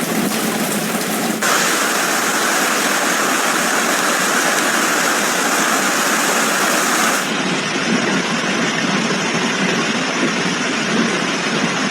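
Steady, dense rush of storm water, as from heavy rain or running floodwater. The sound changes abruptly about a second and a half in, growing brighter, and again at about seven seconds.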